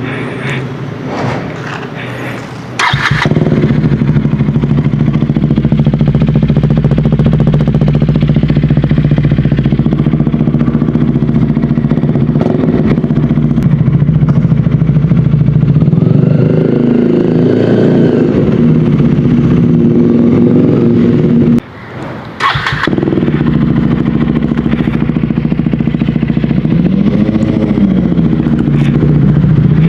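A 2024 KTM 250 Duke's single-cylinder engine, heard through an MSH G4 slip-on exhaust, starts about three seconds in and then idles steadily, its pitch wavering with light throttle. About two-thirds of the way through the sound drops away for about a second, then comes back with a sharp burst and keeps idling.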